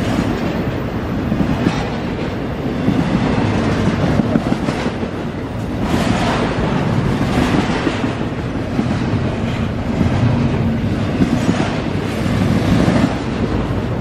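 CSX double-stack intermodal freight train's well cars passing close by, steel wheels rolling and clattering on the rails in a loud, continuous rumble. The noise swells every second or two as the cars go by.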